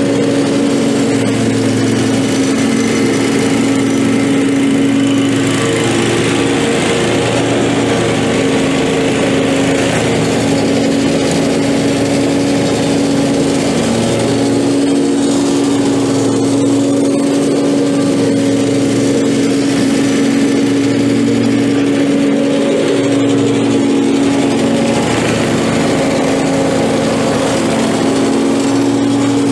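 Lawn mower engine running steadily, with a low drone that swells and eases every couple of seconds.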